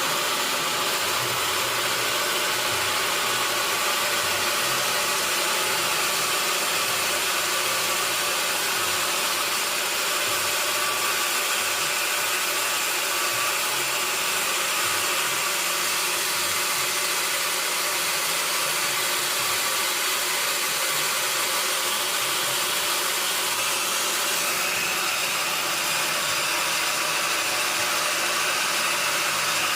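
Sawmill machinery running steadily: a constant mechanical hum under a loud, even hiss. About three-quarters of the way through, the hiss gets brighter and a higher steady tone comes in.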